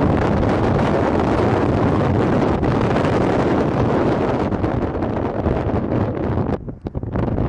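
Strong wind buffeting the microphone: a loud, rough rushing noise that dips briefly near the end.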